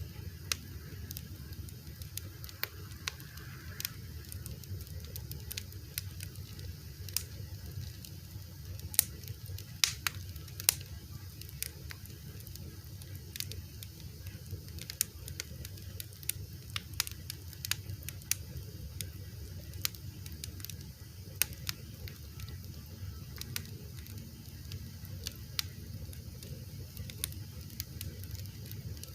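Wood fire crackling, with frequent irregular sharp pops and snaps over a low steady rumble of the flames; a few louder pops come about ten seconds in.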